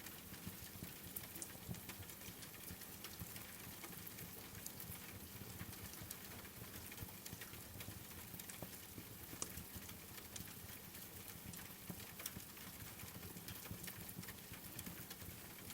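Steady rain falling, with scattered sharp crackles and pops of a wood fire burning in a fireplace.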